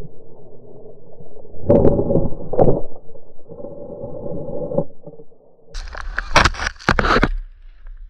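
Snowboard sliding and scraping over snow in several passes, turning harsher and hissier for about a second and a half near the end.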